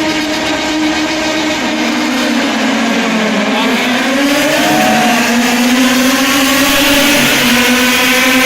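A vehicle engine running steadily; its pitch dips about three seconds in, then rises slowly.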